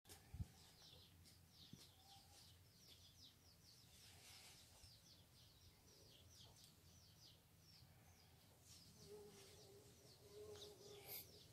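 Near silence, with a bird's faint, rapid, high chirping in the background, about four or five chirps a second.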